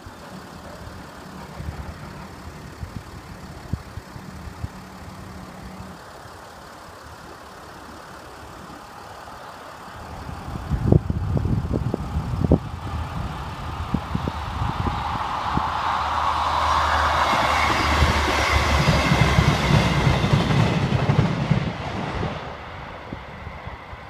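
Class 158 Express Sprinter diesel multiple unit approaching and passing on the line. A run of loud sharp clacks comes about eleven seconds in. Then the rumble of its underfloor diesel engines and wheels on the rails builds to a peak and fades near the end.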